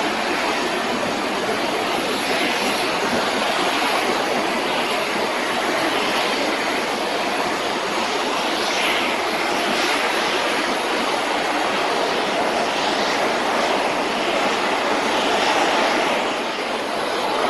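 Steady jet-engine rush from a Japan Airlines Boeing 787-8 at the runway, an even roar with soft swells and no distinct whine or sudden change.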